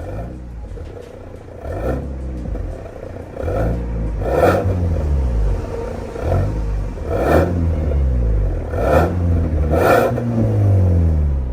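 Ford Kuga EcoBoost 250 ST-Line Mk3 running through an MS-R valved cat-back exhaust, revved in a series of about six or seven throttle blips, each climbing quickly and dropping back to idle. The last rev near the end is held a little longer.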